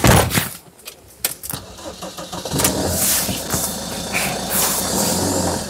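A loud thump right at the start, then a vehicle engine is started about a second and a half in and settles into a steady idle.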